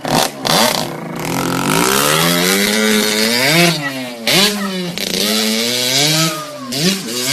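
Motorcycle engine revving hard: the pitch climbs for about two seconds, then drops and rises again in several shorter pulls of the throttle.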